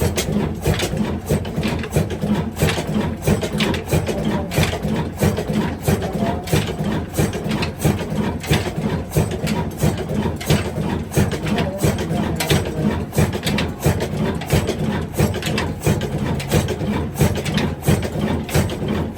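Diesel engine running steadily with a regular knocking beat, just fired up after a hard cold start.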